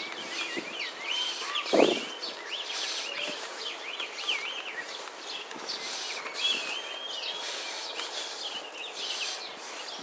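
Several small birds chirping and whistling in the garden trees, a busy stream of short wavering calls. A single dull thump comes about two seconds in.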